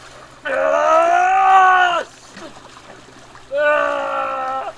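A man shouting twice in long, drawn-out yells, one about half a second in and another near the end, as he takes the plunge into the cold lake water.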